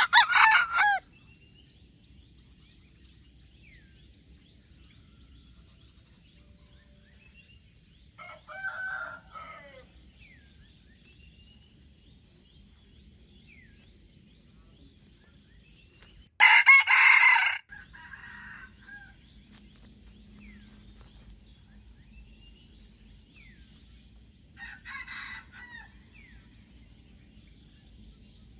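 A cockerel crows repeatedly. Each crow lasts about a second: a loud one at the very start and the loudest about halfway through, with fainter crows in between and near the end. Under it runs a steady high-pitched insect drone.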